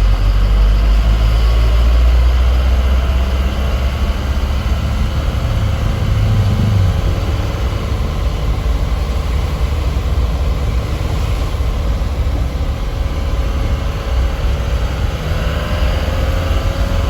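Truck engine running on the road, a steady low drone with road noise, rising briefly about six seconds in.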